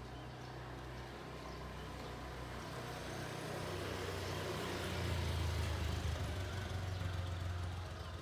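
A motor vehicle passing on the street. Its low engine hum and road noise build up, are loudest about five to seven seconds in, and then fade.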